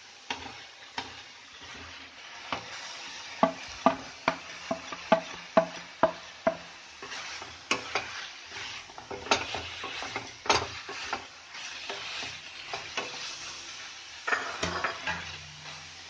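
A spoon stirring fried chicken pieces into an onion and green chilli paste frying in a pan: quick knocks and scrapes of the spoon against the pan over a steady sizzle.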